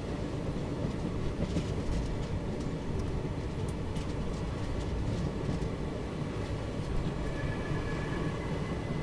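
Express passenger train running along the line, heard from an open coach doorway: a steady rumble of wheels on the rails mixed with rushing air, with a few faint clicks from the track.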